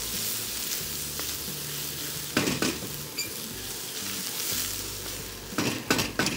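Chopped onion, ginger, garlic and green chilli sizzling in hot ghee in a steel kadai while being stirred with a wooden spatula. The spatula scrapes and knocks against the pan a few times: twice about two and a half seconds in, and in a louder cluster near the end.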